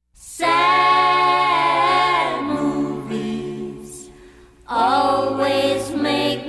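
Vocal music: voices singing long held notes together without instruments, fading to a quieter passage near the middle before a strong new phrase about five seconds in.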